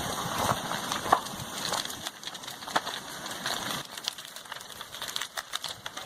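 Irregular crackling and snapping of a house burning as a lava flow engulfs it, over a steady hiss.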